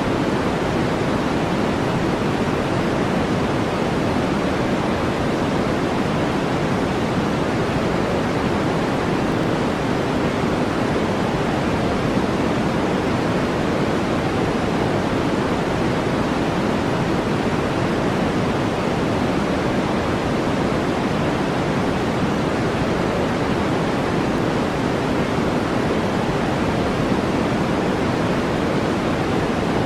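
Steady brown noise: an even, deep hiss that never changes, heavier in the lows and fading toward the highs.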